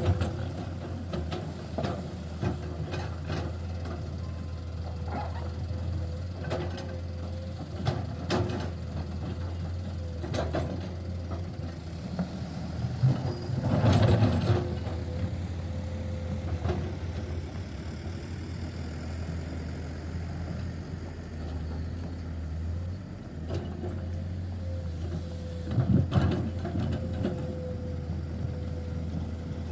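Heavy diesel construction machinery running steadily at a worksite, with scattered knocks and clanks throughout and two louder swells, one midway and one near the end.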